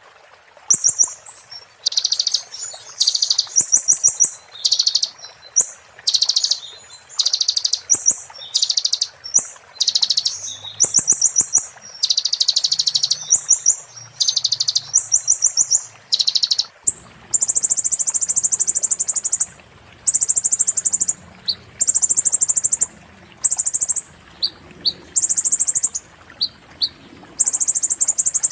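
Konin (brown-throated sunbird) singing a string of short, rapid, high-pitched trills, roughly one phrase a second. About halfway through the phrases change to longer, higher trills with short gaps between them.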